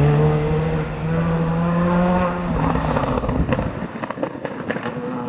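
Rally car engine running hard at high revs, its note rising slightly, then breaking off about halfway through as the driver lifts or shifts. The car then fades away with a series of sharp exhaust pops and cracks.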